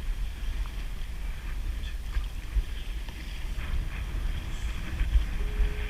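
Wind rumbling on the microphone out on open water in a kayak, with a few faint small knocks.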